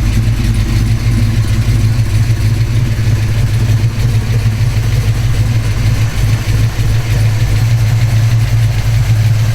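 1972 Chevrolet Chevelle's 396 big-block V8 idling steadily through headers and a dual exhaust, with a deep, even note.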